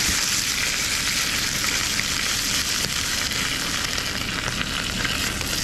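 Trout frying in hot vegetable oil in a frying pan: a steady sizzling hiss with fine crackling.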